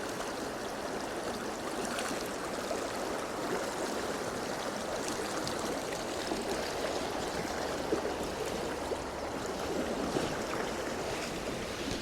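Stream water running over rocks, a steady rushing rush of moving water, with a couple of faint taps about two-thirds of the way through.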